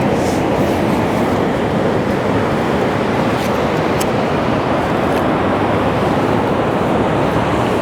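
Steady rush of beach surf and wind on the microphone, with a few faint clicks.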